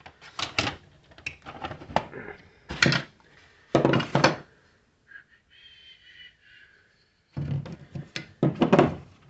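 Knocks and clunks of hard plastic parts being handled and set down, in irregular bunches, with a quieter stretch in the middle holding a faint scrape.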